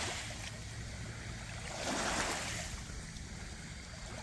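Steady rushing hiss of wind and lake water over a constant low rumble, swelling once about two seconds in.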